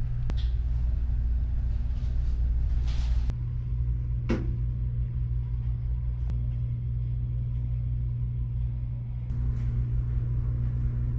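Steady low machinery hum of a car ferry's engines and generators heard on board, with a brief falling sweep about four seconds in.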